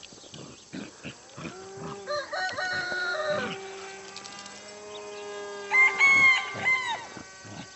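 A bird calling twice with long, pitched calls, one about two seconds in and a louder one about six seconds in.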